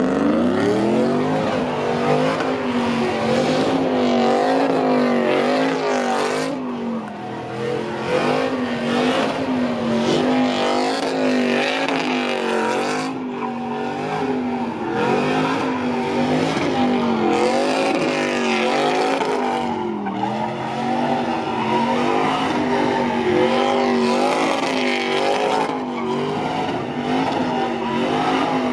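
Pickup truck engine held at high revs during a burnout, its pitch wavering up and down about once a second, over the hiss and squeal of spinning tyres.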